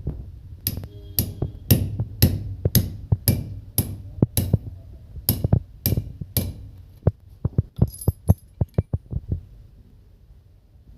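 Hammer blows, about a dozen sharp strikes at roughly two a second, over a low hum. They give way to a quicker run of lighter knocks and clicks that dies away near the end.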